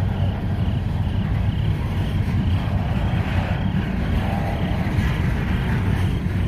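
A freight train's cars rolling past close by: a steady rumble of steel wheels on rail as covered hoppers and lumber-loaded centerbeam flatcars go by. A faint high tone repeats about twice a second throughout.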